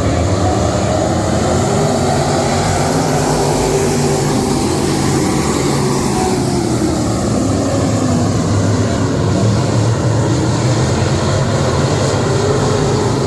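Race car engines running loudly and steadily, typical of dirt-track modifieds circling the track.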